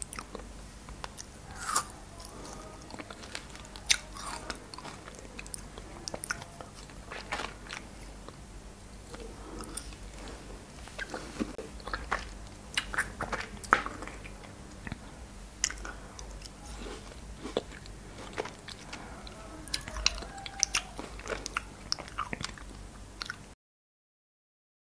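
Close-miked biting and chewing of frozen cherries: irregular sharp crunches and clicks of icy fruit in the mouth. Near the end the sound cuts out to silence.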